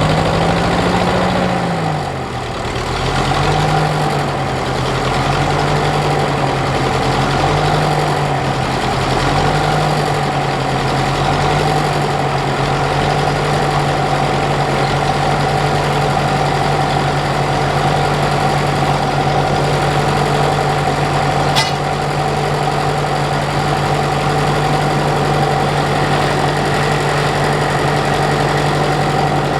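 Ferguson TEF-20's four-cylinder diesel engine just after starting: the revs hunt up and down a few times over the first ten seconds, then settle into a steady idle. A single sharp click about twenty-one seconds in.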